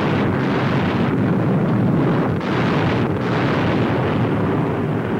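Bombs exploding in a continuous heavy rumble, with no clear engine tone, as heard on a 1940s newsreel soundtrack.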